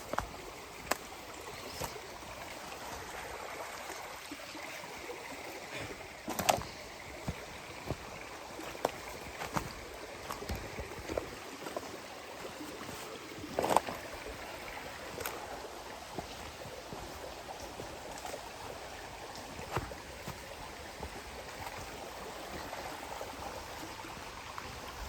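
A creek running steadily, with scattered footsteps and sharp snaps and knocks underfoot. The loudest knocks come about six and fourteen seconds in.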